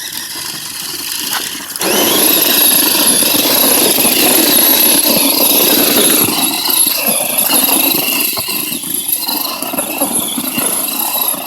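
Radio-controlled monster truck's motor and gears whining as it drives, growing louder about two seconds in as it speeds up.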